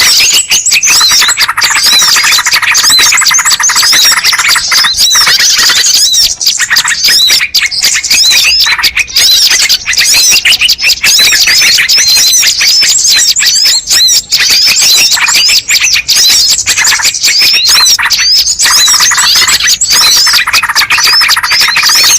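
Loud, dense chorus of small birds chirping and squeaking in rapid, overlapping calls without a break: a recorded bird-lure call used to draw in wild birds.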